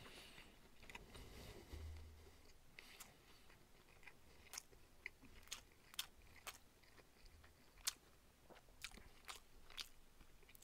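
Faint, irregular wet clicks and smacks of a person chewing clam-meat sushi close to the microphone.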